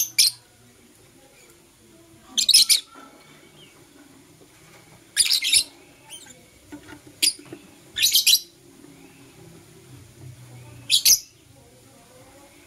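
Pet lovebirds giving short, high-pitched chirps: six sharp bursts, each lasting under a second and a second or more apart.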